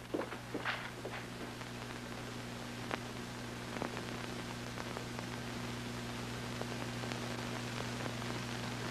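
Steady hiss with a low, even hum, and a few faint clicks in the first second and again around three to four seconds in.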